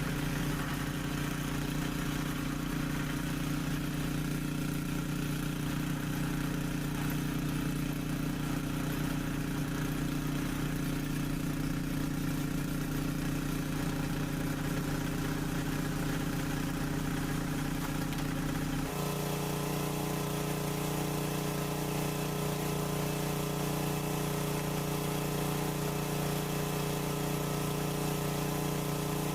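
Mahindra tractor's diesel engine running steadily, with an abrupt change in its tone about two-thirds of the way through.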